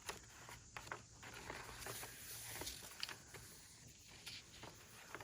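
Paper and card pages of a handmade journal rustling as they are handled and turned, with a few light clicks and taps.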